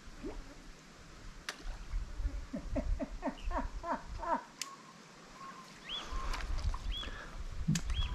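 Birds calling: a quick run of falling notes between about two and four seconds in, then short arched chirps later on, with a few sharp clicks in between.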